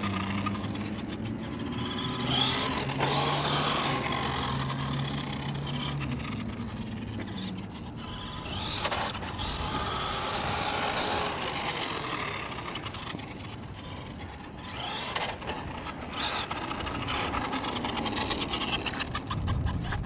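1/10-scale electric RC monster truck (FMS Ford F-100 2WD) being driven on a 3S battery: its electric motor and drivetrain whine, rising and falling repeatedly as it speeds up and slows down. The drivetrain is noticeably loud.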